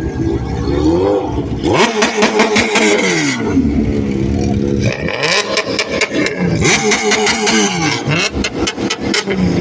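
Car engine revved hard again and again, the pitch climbing and dropping with each blip. At the top of the revs come rapid stuttering pops, in two loud stretches.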